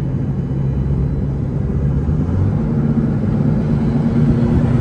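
Car engine running with a steady low drone, and a higher steady tone joins a little before halfway. This is the odd sound the driver likens to a turbo or supercharger on a car that doesn't have one, and he fears it means something bad.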